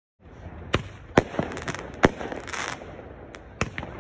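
Street fireworks and firecrackers going off at close range: a run of about eight sharp, irregular bangs, sometimes two or three within half a second, over a steady background of noise, with a brief hiss near the middle.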